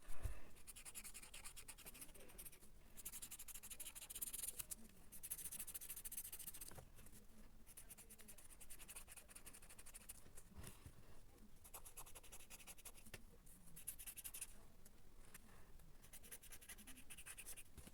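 A drawing tool scratching across paper in stretches of a few seconds with short pauses between them, faint throughout. A brief thump right at the start.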